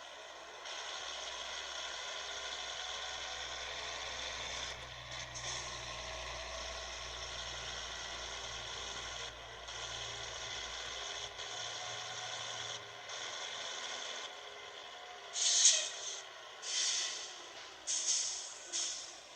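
Scania 111 truck running with a steady engine drone. In the last few seconds come four short, sharp hisses of compressed air, typical of the truck's air brakes.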